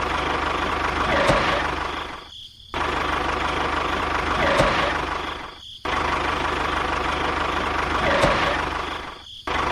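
A tractor-like engine running steadily, heard as a clip of about three and a half seconds that repeats three times. Each repeat fades into a brief drop-out before starting again abruptly.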